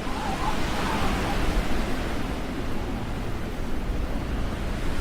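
Storm wind gusting across the microphone: a loud, steady rushing noise with a heavy low rumble.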